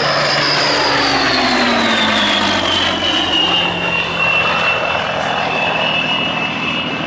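Rolls-Royce Merlin V12 engine of a Second World War fighter flying past. The engine note falls in pitch over the first three seconds or so as the aircraft passes, then holds steady as it moves away.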